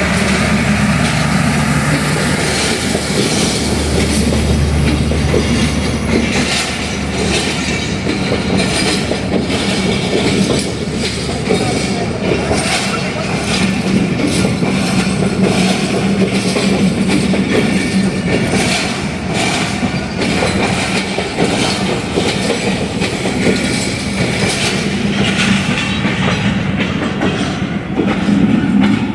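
Diesel-hauled passenger train arriving at a station. The locomotive engine hums for the first few seconds, then the coaches roll by with repeated clickety-clack of wheels over the rail joints, and some wheel squeal.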